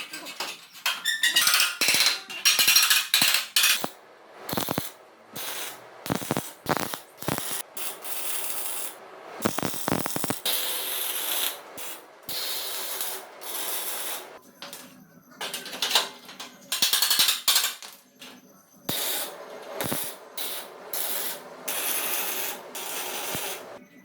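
Workshop tool noise: irregular scraping and rasping strokes, each lasting from a moment to a couple of seconds with short gaps between, and a few sharp clicks.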